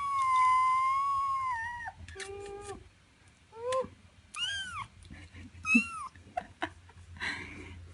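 Three-week-old feral kitten meowing in protest at being picked up and handled: one long cry of about two seconds, then a series of shorter cries.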